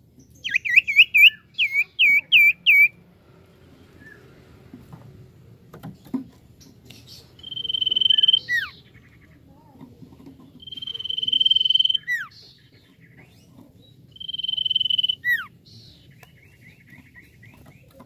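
Common iora singing: a quick run of about seven curved chirps, then three long steady whistles, each held about a second and ending in a sharp downward slur.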